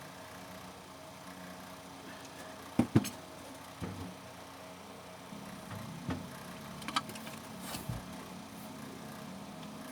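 A steady low hum with scattered sharp clicks and knocks of hard objects being handled, two loud ones close together about three seconds in and several lighter ones later.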